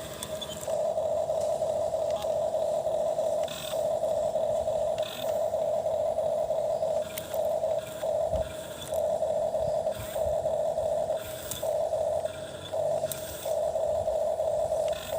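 Small electric motor of a toy excavator whining at one steady pitch in short spurts. It stops and starts again every second or so as the arm is worked, with faint scraping and clicks.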